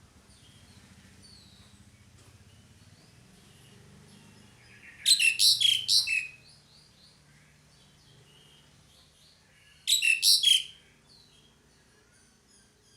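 Asian pied starling (jalak suren) calling: a quick run of loud chattering notes about five seconds in, lasting just over a second, and a shorter run around ten seconds in, with faint chirps between them. The call is that of a female calling a male.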